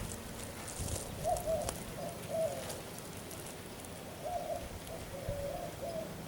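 A bird calling in short, slightly wavering notes, in two runs: one starting about a second in and one about four seconds in. A faint steady low hum runs underneath.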